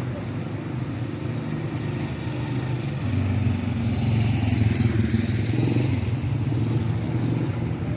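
A motor vehicle's engine running close by, growing louder about halfway through and then easing off a little.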